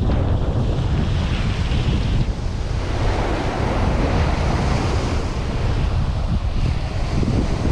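Surf washing onto the beach, with wind buffeting the microphone in a steady low rumble underneath.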